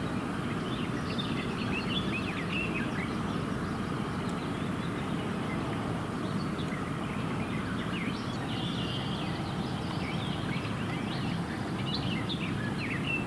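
Birds chirping in short, high calls scattered throughout, with one brief held note about two-thirds of the way in, over a steady low background rumble.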